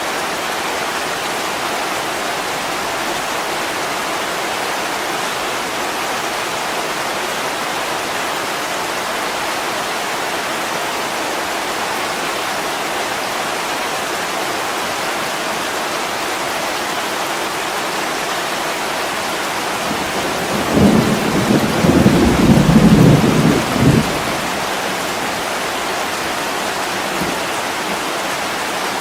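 Heavy rain running steadily on a window, with a low roll of thunder about twenty seconds in that rumbles for about three seconds before fading back under the rain.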